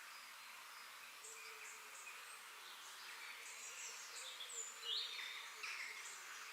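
Forest ambience: a steady high insect hiss with several birds chirping over it in short calls. The loudest call is a sharp one about five seconds in.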